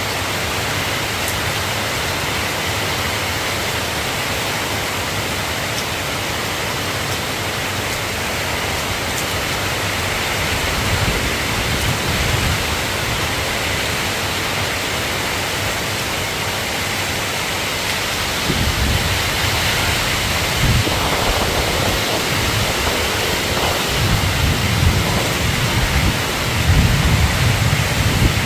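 Steady rain hiss with low rumbles: a few near the middle, then repeated, louder ones through the last ten seconds.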